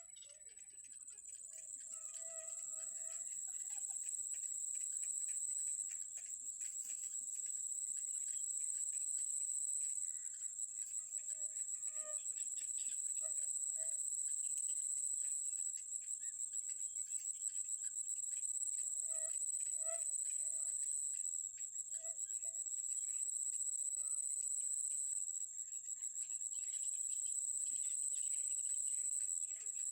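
Insects, crickets or cicadas, droning steadily at a high pitch with a fast pulse. Short low bird calls break in now and then, in a few clusters.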